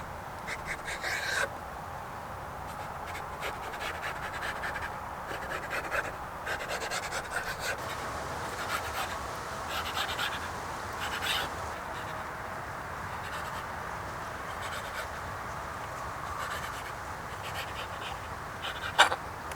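Scattered light clicks and scrapes, typical of hands working with utensils and food, over a steady outdoor hiss, with one sharper click near the end.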